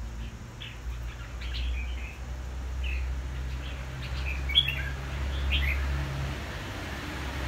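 Red-whiskered bulbul giving a string of short chirps, with one sharper, louder note about halfway through, over a steady low background rumble.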